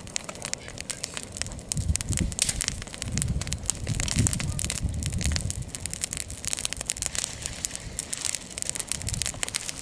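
Bonfire crackling, with dense, irregular sharp pops.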